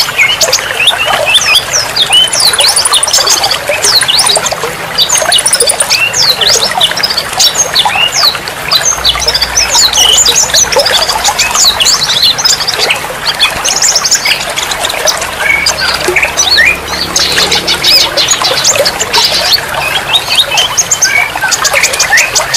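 Many songbirds chirping, trilling and calling rapidly at once, with a few buzzy rattles, over steadily trickling water.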